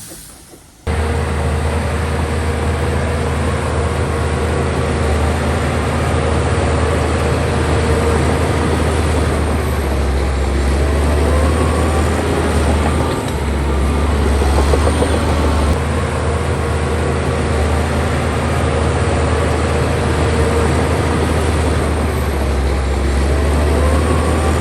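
Heavy diesel engine of an earth-moving machine running steadily under load, a deep, even hum with mechanical clatter over it; it cuts in abruptly about a second in.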